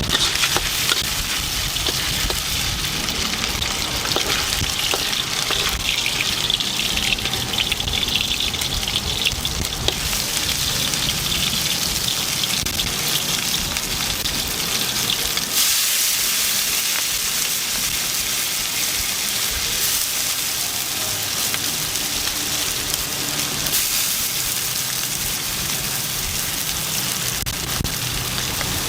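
Rice noodles and chicken frying in a hot wok: a steady sizzle that changes in character several times, with occasional short clicks.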